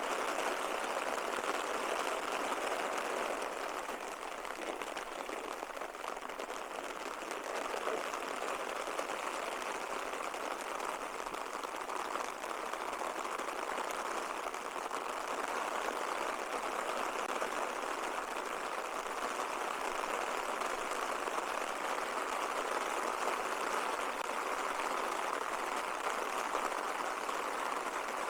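Steady rushing sound of falling water, an even hiss with no distinct drops or knocks.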